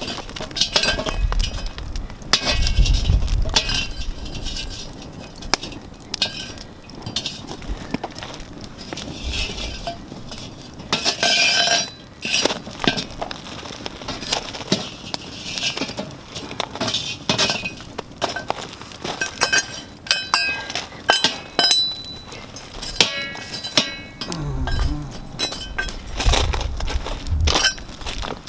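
Campfire crackling: burning wood giving off frequent, irregular sharp pops and snaps, with a low rumble now and then.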